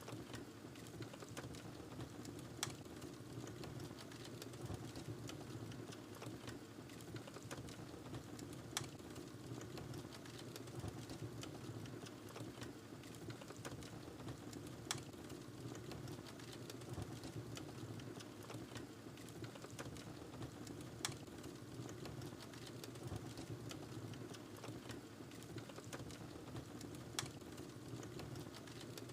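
Wood fire in a fireplace crackling steadily under a low bed of flame noise, with a sharper pop about every six seconds.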